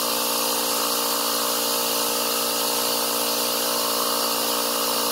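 Portable Ryobi cordless tire inflator running steadily as it pumps air into a boat-trailer tire: an even motor hum with a hiss over it.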